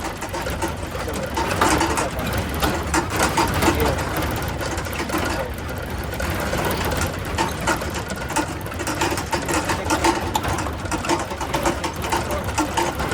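A small engine running, with a fast, steady mechanical rattle over a low rumble.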